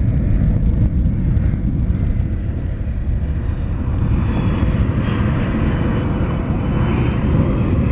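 Jet engine noise from a C-17 Globemaster III's four Pratt & Whitney F117 turbofans, running at high thrust as a steady, loud rumble. The noise grows a little louder and brighter about halfway through, as the aircraft comes out of slow flight with its flaps coming up.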